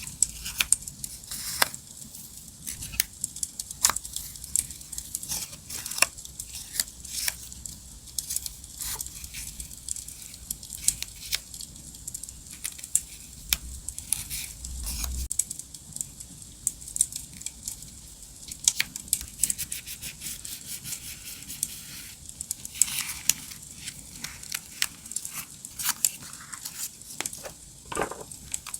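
Paper and stickers being handled for diary decorating, with tearing and crinkling sounds, over a campfire crackling track full of scattered sharp pops.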